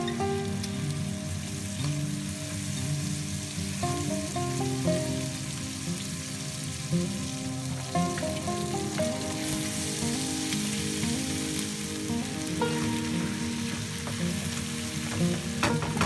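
Pork, tomatoes and onions sizzling steadily as they fry in oil in a frying pan, with a few scrapes of a wooden spatula stirring near the end.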